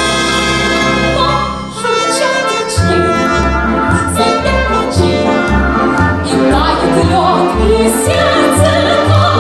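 A woman singing in operetta style over an orchestra. The orchestra holds a chord, dips briefly about two seconds in, then starts a steady bouncing bass beat under the voice.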